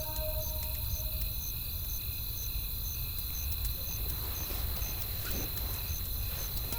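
Crickets chirping in a steady rhythm, about two chirps a second, over a low steady rumble with a few faint, scattered fire crackles.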